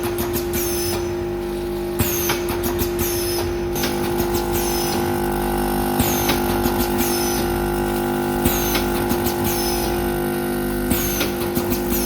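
Automatic bag-packing machine running with a measuring-cup filler, bagging salt into back-sealed bags: a steady motor hum under a repeating cycle of clicks and short hisses, roughly once every second or so.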